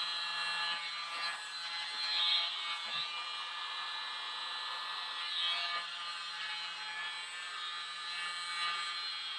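Tiny electric mini blower running steadily with a high, even motor whine, blowing air across wet poured acrylic paint to spread it into waves.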